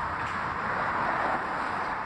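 Freight train of open-top box wagons rolling slowly past close by: a steady noise of wagon wheels running on the rails.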